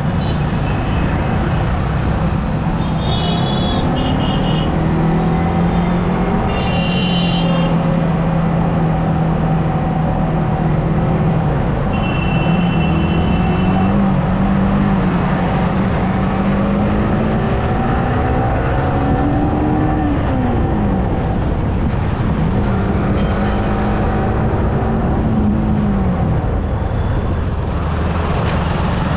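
Yamaha R15M's single-cylinder engine pulling while riding in traffic, its pitch climbing and dropping with throttle and gear changes, most sharply around two-thirds of the way through, over steady wind and road noise. Short vehicle horn beeps sound a few times in the first half.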